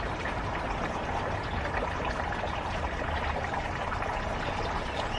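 Steady rush of running water, with faint small clicks over it.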